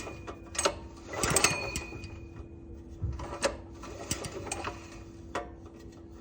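Irregular metallic clicks and knocks of parts and tools being handled on a small go-kart engine, over a steady faint hum.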